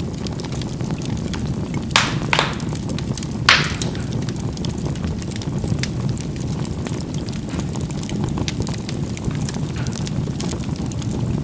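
Charcoal burning in a fireplace: a steady low rush of fire with three sharp pops from the burning charcoal, about two, two and a half and three and a half seconds in, then only small faint crackles.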